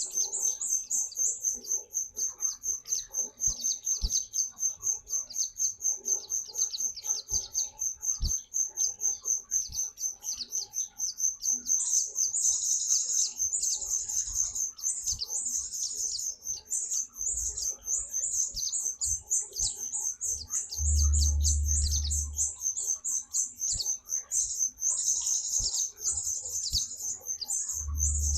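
A white-eye (pleci) singing vigorously: a high chirp repeated rapidly and evenly several times a second, broken now and then by fuller, busier warbling phrases. Two brief low rumbles come in, one past the middle and one near the end.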